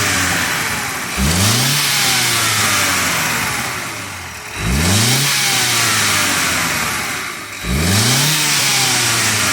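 A 2019 BMW M135i xDrive's 2.0-litre turbocharged four-cylinder petrol engine being revved from a standstill. There are three throttle blips about three seconds apart, each rising sharply and then settling slowly back toward idle.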